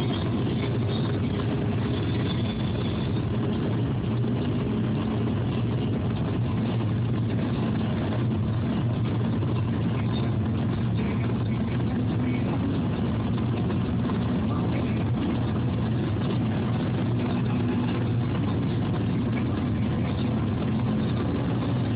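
Steady engine and road noise inside a car's cabin while driving, a low even rumble with no sudden changes.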